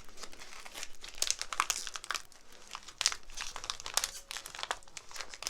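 Crinkly plastic snack packaging of Hello Panda biscuits being handled and opened, with a rapid, irregular crackle throughout.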